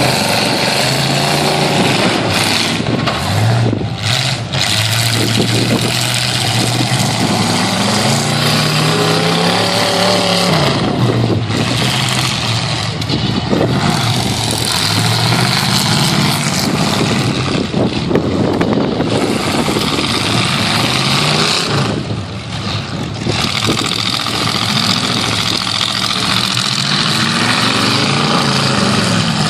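Half-ton pickup truck engines revving hard, their pitch rising and falling over and over, over the loud continuous noise of several engines running at once.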